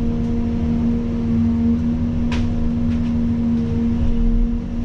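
Caterpillar 336 excavator's diesel engine running at a steady speed: a constant low rumble with a steady hum, and a faint tick about two seconds in.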